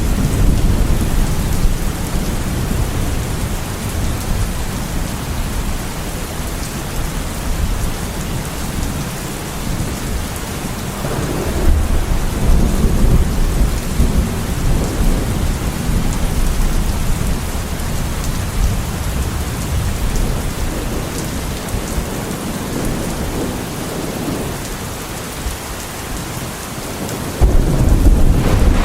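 Heavy rain falling steadily, with low thunder rumbling in slow swells. A louder burst of rumbling thunder breaks in suddenly near the end.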